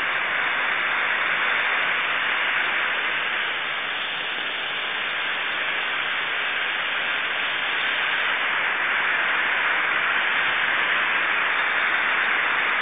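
Garden hose spraying a fine mist, a steady hiss of water.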